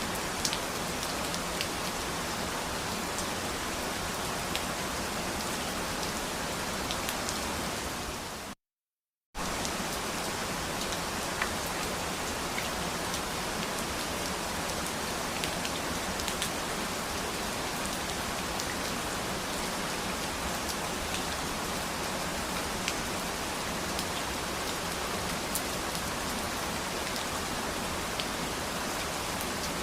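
Steady rain falling on a surface, an even hiss with scattered sharper drop ticks. The sound cuts out completely for under a second about nine seconds in, then resumes at the same level.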